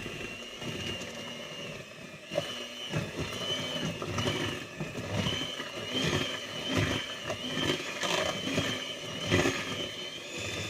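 Electric mixer beating brownie batter in a bowl: a steady motor whine that wavers slightly in pitch, with irregular knocks of the beaters against the bowl.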